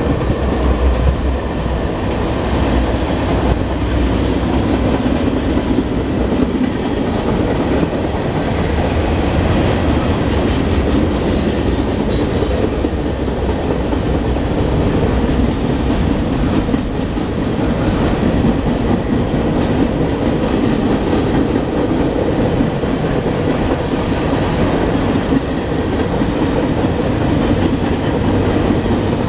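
Freight cars of a Norfolk Southern mixed freight train rolling past at a steady speed: a continuous rumble of steel wheels on the rails.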